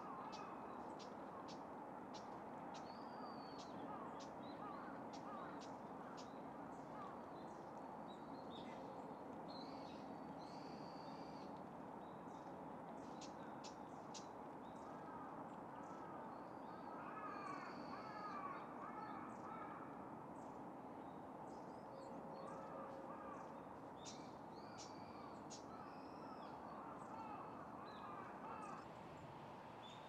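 Birds calling: many sharp clicks and bursts of short, arching calls, thickest just past the middle and again near the end, over a steady low hum.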